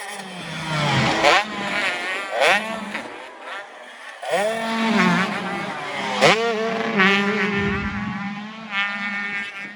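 Motocross race engines revving hard. Their pitch climbs steeply and drops again about six times as the machines accelerate and shift through the gears, over a steady lower engine note.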